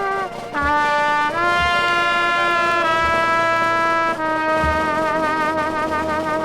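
Dixieland jazz band music: trumpet and trombone playing a slow tune in long held notes, several with a slow vibrato.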